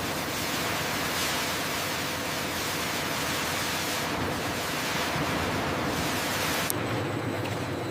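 Steady, loud rushing noise with no distinct strokes or tones. About seven seconds in it changes abruptly to a duller noise with a faint steady hum.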